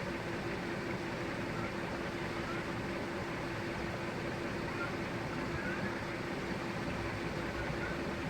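Steady background hum and hiss with a faint constant tone and no distinct events: even room or fan-like noise.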